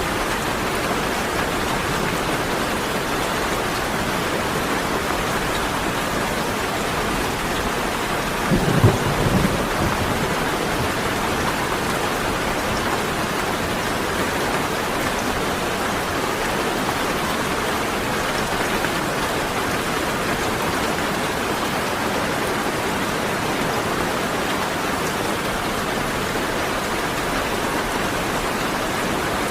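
Steady rain falling, with one short, low rumble of thunder about nine seconds in.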